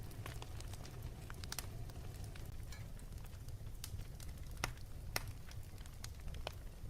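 Wood fire crackling in a fireplace: scattered snaps and pops over a low steady rumble, with two louder pops a little past the middle.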